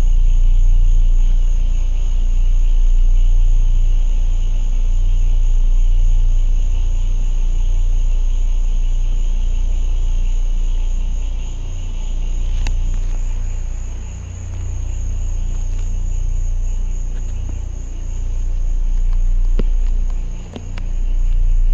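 A deep, steady rumble with a continuous high chorus of night insects over it, and a few faint clicks near the end.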